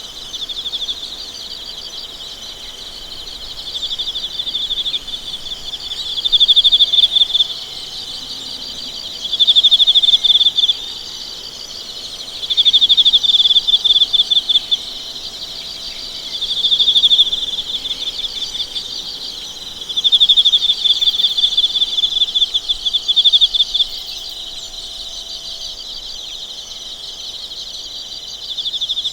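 A chorus of singing insects: a steady high trill, with louder pulsed phrases of a second or two that come back about every three seconds.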